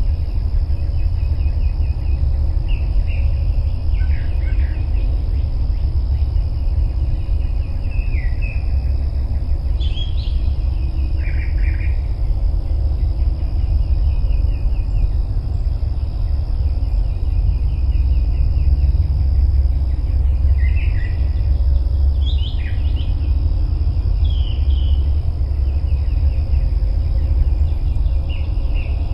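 Wind buffeting the microphone, a steady loud low rumble. Short, rapid chirping trills come and go over it every few seconds.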